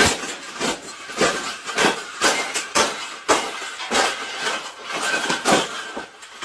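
Metal wire bird cage rattling and clanking in a run of sharp knocks, about two a second.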